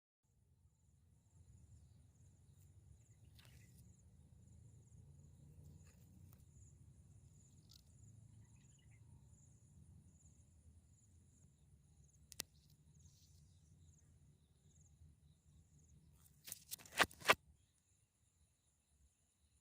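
Outdoor ambience: a steady high insect trill, as of crickets, over a low rumble of wind or background noise. A single sharp click comes about twelve seconds in, and a quick run of four or five louder clicks comes near the end.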